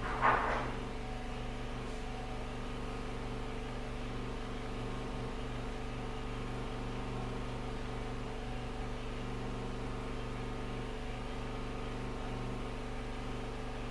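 Steady machine hum made of several constant tones. A brief, louder sound comes just after the start.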